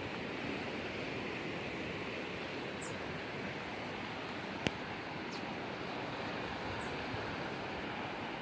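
Steady rushing of water, with two short, high bird chirps and a single sharp click about halfway through.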